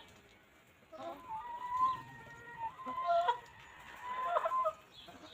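Chickens clucking, starting about a second in, with a drawn-out held call in the middle and more clucks toward the end.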